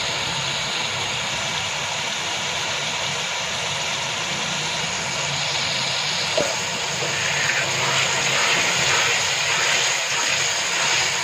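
Minced meat sizzling in hot oil in an aluminium pot, a steady hiss that turns louder and more crackly from about halfway. A single light tap comes a little past the middle.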